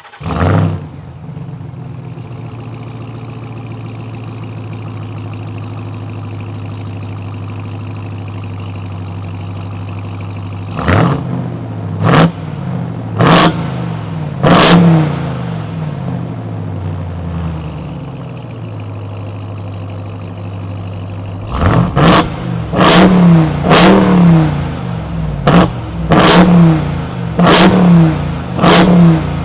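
Ram TRX's supercharged 6.2-litre Hemi V8 idling, with a brief flare at the very start. About ten seconds in it is blipped four times, settles back to idle, then is revved repeatedly in quick succession near the end.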